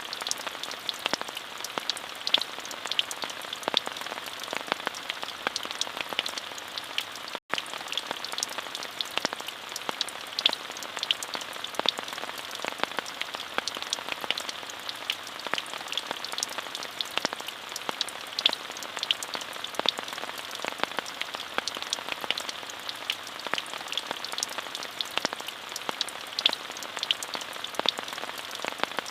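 Steady rain: an even hiss full of many small drop ticks, with no changes in intensity. The sound cuts out for a split second about seven seconds in.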